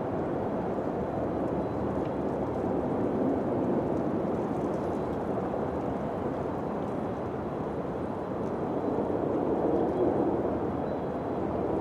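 Wind blowing steadily, with a low, rushing tone that swells in gusts about three seconds in and again near the end.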